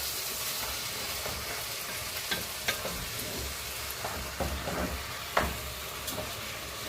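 Rice frying in hot oil in a cooking pot: a steady sizzle, broken by a few sharp clicks and scrapes of stirring.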